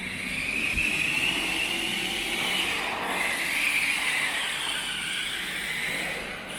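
Battery-powered RC car driving, its electric motor giving a high whine that rises and falls as the throttle changes.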